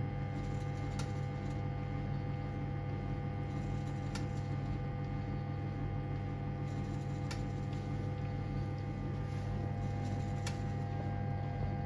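1978 Siemens WA4600 washing machine running mid-programme, a steady low motor hum with a few steady higher tones, and a faint click about every three seconds.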